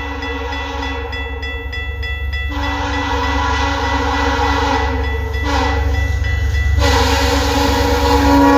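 A VIA Rail passenger train's diesel locomotive approaching with a steady low rumble. Its horn sounds in long blasts from about two and a half seconds in, with a short break partway through, and grows louder near the end as the train draws closer.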